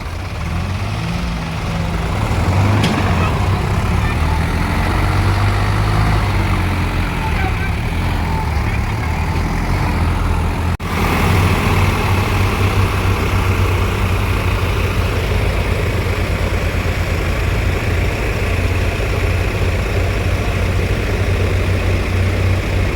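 Tractor engine running steadily with a low, pulsing drone, with people's voices in the background during the first half.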